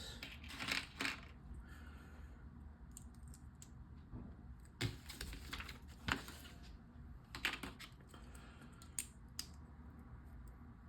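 Small plastic LEGO pieces clicking and rattling as they are handled and pressed together, in short scattered clusters of clicks.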